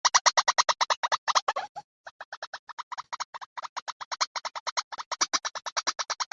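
White-breasted waterhen (ruak-ruak) call played as a recorded lure: a fast run of harsh repeated notes, about ten a second. It breaks off briefly about two seconds in, then carries on.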